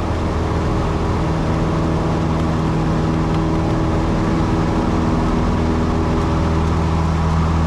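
Small propeller plane's piston engine and propeller droning steadily in flight, an even, low-pitched hum.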